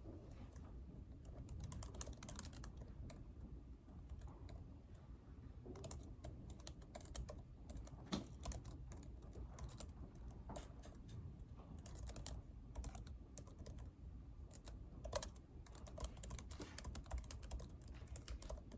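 Typing on a computer keyboard: quick runs of key clicks in several bursts with short pauses between, over a steady low room hum.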